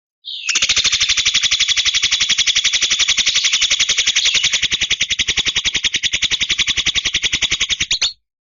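Javan myna (jalak kebo) giving a long, harsh, rapid rattling chatter of about ten notes a second, steady in pace, which stops abruptly near the end.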